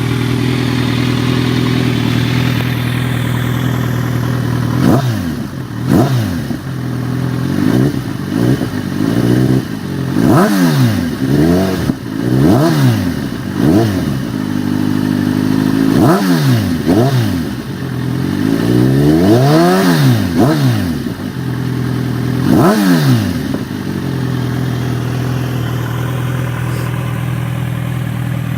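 Kawasaki Z1000's inline-four engine breathing through an Akrapovic aftermarket exhaust. It idles steadily, then is revved in a string of about a dozen throttle blips, each rising and falling in pitch, one longer rev near the middle. It settles back to idle near the end.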